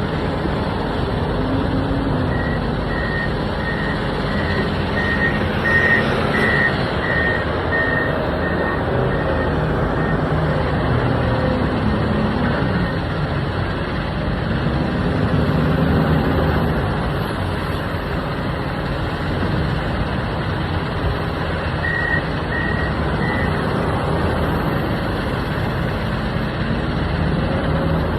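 Komatsu WA470 wheel loader's diesel engine working under load, revving up and down as it moves material. A reversing alarm beeps steadily for several seconds near the start and again briefly about three-quarters of the way through.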